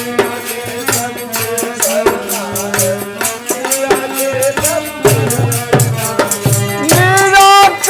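Instrumental passage of a dehati folk bhajan: a held melody line over hand drums and shaken rattle-type percussion keeping a steady beat, growing louder near the end.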